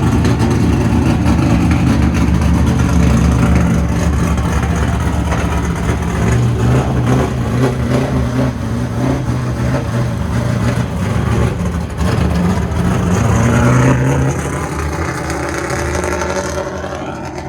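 A car engine running loud and close, its note shifting with the revs. Near the end the revs climb, then ease off.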